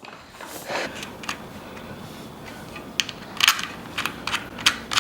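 Bike-workshop handling noise: a scattered series of sharp clicks and light metallic taps from tools and bike parts, most of them bunched together from about three seconds in.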